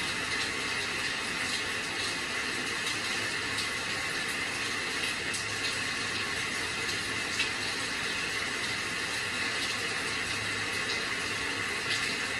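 Steady rain, an even rushing hiss with scattered faint drips and patters, including small ticks about seven and twelve seconds in.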